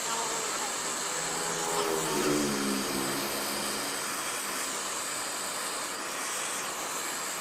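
Gas welding torch flame hissing steadily while heating a copper pipe joint for brazing with filler rod. A faint voice is heard in the background about two seconds in.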